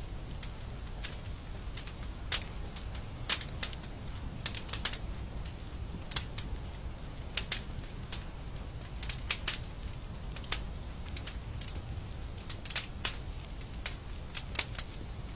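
Fire in a fireplace crackling: irregular sharp snaps and pops, several a second, over a steady low rumble.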